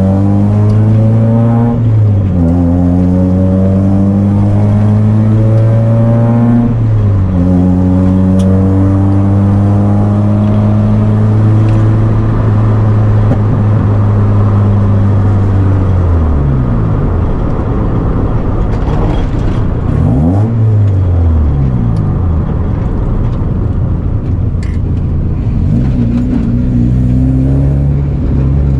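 Turbocharged Mazda Miata four-cylinder engine accelerating hard, its pitch climbing and dropping back at two gear shifts, then holding steady. About sixteen seconds in the revs fall away, flare up briefly and drop again, then climb once more near the end.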